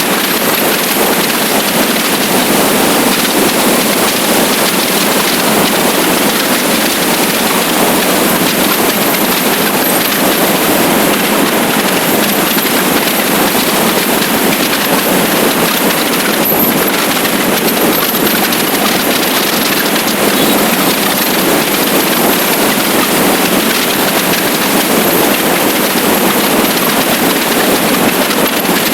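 Steady rush of wind over the microphone of a motorcycle riding at speed, with no change in level throughout.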